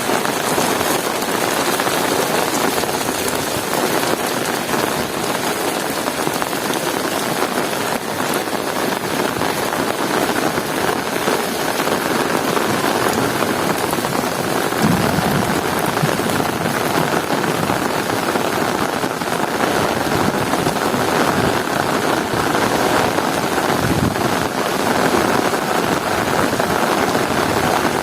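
Heavy rain falling in a steady, dense hiss. Two brief low rumbles swell up about fifteen seconds in and again near twenty-four seconds.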